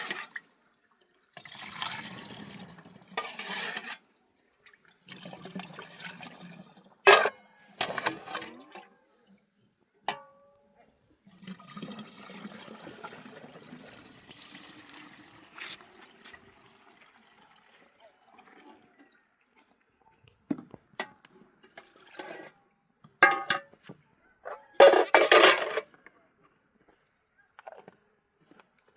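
Water splashing and pouring in several bursts of a few seconds each, with a few sharp knocks in between.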